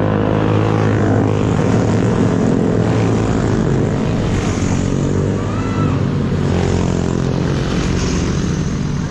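Motorcycle engine running at a steady pitch while riding, with wind noise over it.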